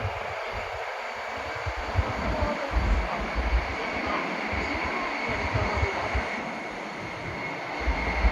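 Cabin running noise of a Nishi-Kyushu Shinkansen N700S train at speed: a steady rushing hiss with faint steady tones, over uneven low rumbles that swell and fade.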